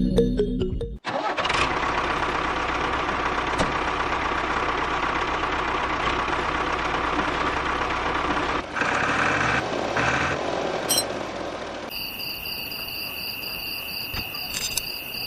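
Small engine of a home-built mini tractor starting and running steadily. Its sound changes about two-thirds of the way through, then turns quieter while a steady high-pitched whine comes in.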